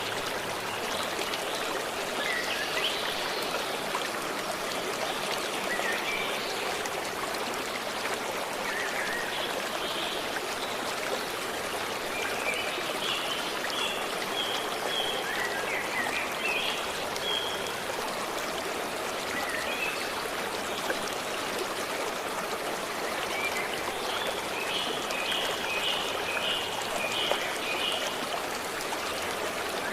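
A stream running steadily over stones, with songbirds chirping over it in short phrases of repeated high notes, one run in the middle and another near the end.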